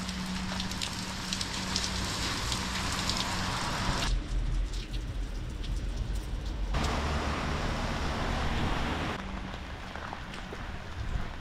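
Rain falling, a steady hiss with individual drops ticking close by. Its character changes suddenly three times, at about four, seven and nine seconds, heavier then lighter.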